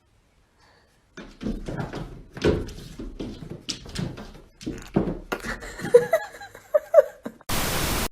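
A run of irregular knocks and thumps in a small room, with a few short squeaks near the end, then a brief burst of hiss.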